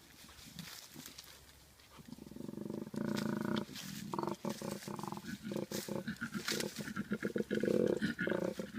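A big cat roaring: quiet for the first two seconds, then a long low growl that breaks into rapid, pulsing grunts, louder near the end.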